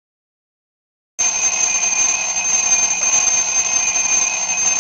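A bell ringing continuously and rapidly at a steady high pitch. It starts suddenly about a second in.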